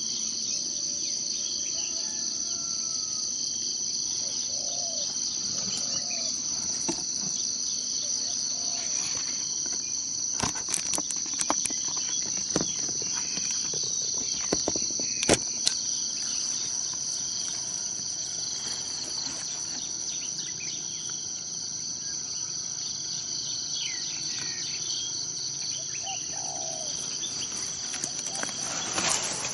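Insects keep up a steady, high-pitched chorus, with a few faint bird calls over it. A handful of sharp clicks comes around the middle.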